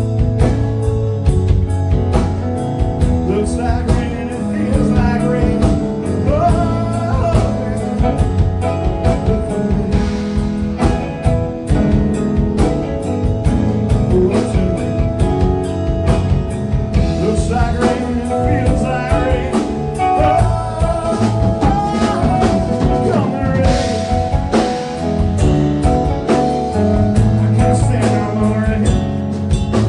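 A rock band playing a long instrumental passage: a lead guitar bending notes over bass and a steady drum-kit beat.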